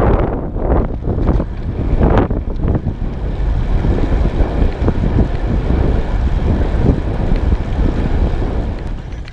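Wind buffeting the microphone of a rider on a road bike pushing into a headwind: loud and gusty, strongest in the first couple of seconds, easing off near the end.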